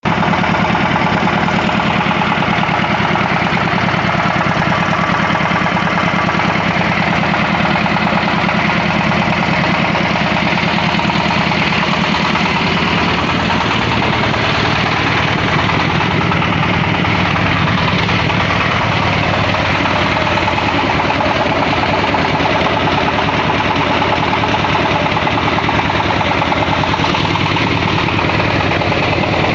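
Diesel engine running steadily, driving a pellet mill through a pulley. The low part of the drone shifts slightly about halfway through.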